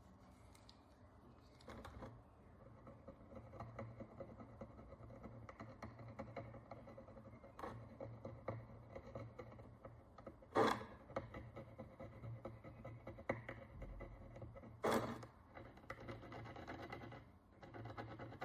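Small hand tool scratching and scraping at the dirt and oxidation crust on an ancient bronze coin, with two sharp clicks, about ten and fifteen seconds in.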